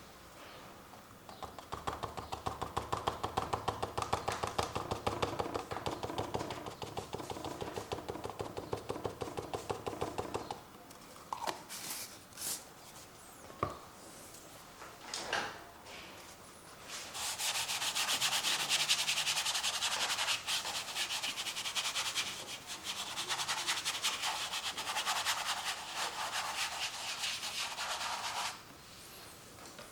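Acrylic paint being scrubbed onto stretched canvas with rapid back-and-forth strokes for about nine seconds. A few separate taps follow. Then comes a second, brighter and hissier stretch of scrubbing that stops shortly before the end.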